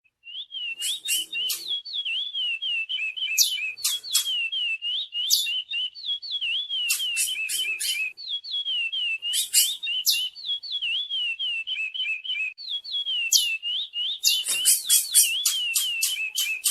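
Curió (chestnut-bellied seed finch) singing: a long, fast warbling song of quick wavering whistled notes mixed with sharp high chips, breaking off briefly twice.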